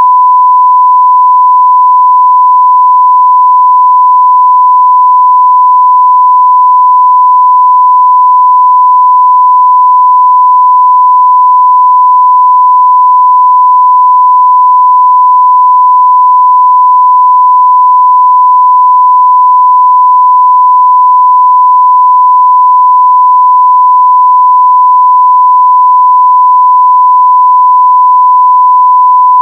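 1 kHz sine-wave audio test tone at full scale (0 dB), one steady unbroken pitch.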